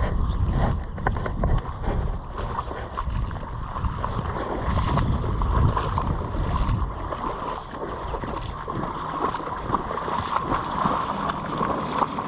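Wind rumbling and buffeting on the microphone over an uneven rush of noise with scattered small clicks.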